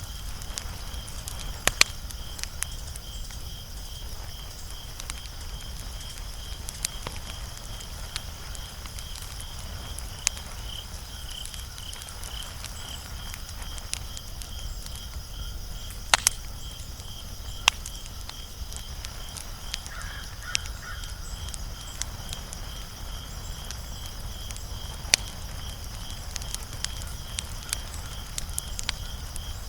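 Wood fire crackling, with scattered sharp pops, the loudest about 2 and 16 seconds in, over a low steady rumble. A cricket chirps steadily in an even, rapid rhythm.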